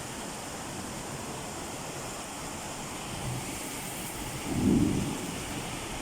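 Steady hiss of heavy rain, with a brief low rumble a little past the middle that is the loudest moment.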